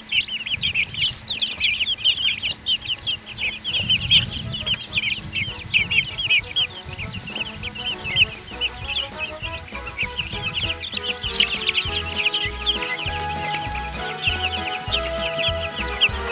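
A brood of baby chicks peeping: a dense stream of short, high, falling cheeps. Background music with a bass line comes in about two-thirds of the way through, under the peeping.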